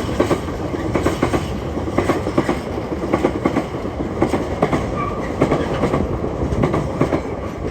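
Freight train hauled by a Class 66 diesel locomotive rolling past, its wagon wheels clattering over the rail joints in a run of irregular clicks.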